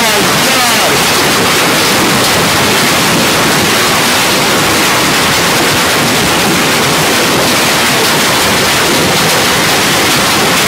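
Hailstorm: hail and heavy rain beating down, a loud, steady hiss of countless small impacts.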